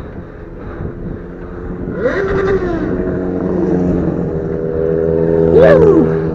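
Motorcycle engine running steadily while riding, with two short rises and falls in engine pitch; the second, about three-quarters of the way through, is the loudest.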